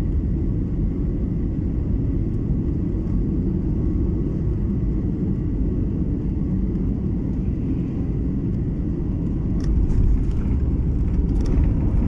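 Steady low rumble of a passenger airliner's engines and airflow heard inside the cabin, with a few light clicks near the end.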